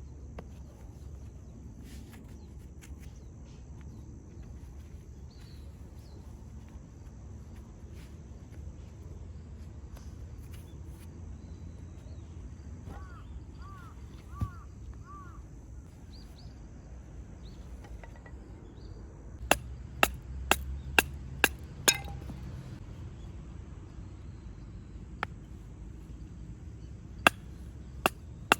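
A run of six sharp knocks, about two a second, a little past the middle, with a few more near the end, over a steady low outdoor rumble. Four short chirps come about halfway.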